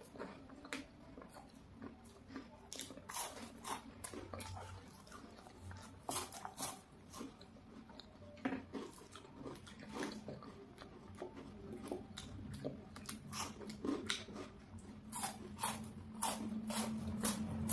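Chocolate bars being bitten and chewed, with many short crisp crunches. A low steady hum comes in near the end.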